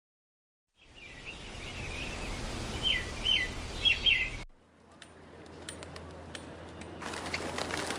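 A bird chirping: a run of short, high chirps over background noise. The sound cuts off suddenly about halfway through, leaving faint noise with scattered clicks.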